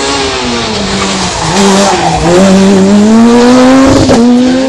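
A rally car's engine drops in pitch as it slows into a hairpin, then revs rising and gets louder as it accelerates out and passes close, with tyres skidding on the road.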